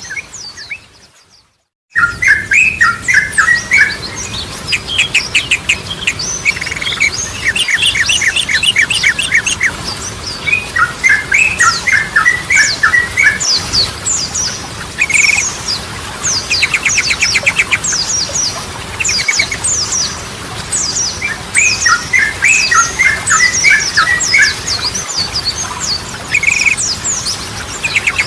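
Yellow-vented bulbul singing, a lively run of chattering, bubbling phrases and fast trills. The song breaks off for about a second near the start, then carries on without pause.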